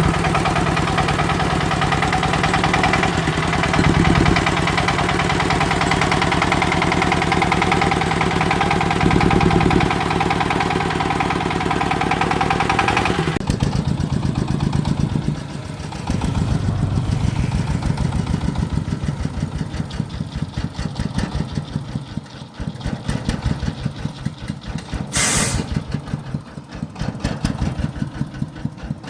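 Agricultural vehicle engine running hard with a dense mechanical din. About thirteen seconds in it drops to a steady idle with an even, rapid beat. A short high hiss comes near the end.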